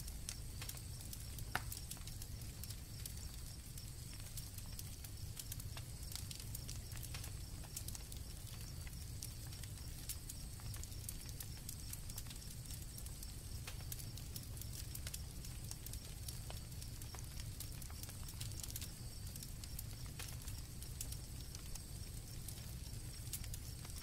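Campfire crackling, with scattered sharp pops over a low steady rumble and one louder pop about a second and a half in, while crickets keep up a steady high trill.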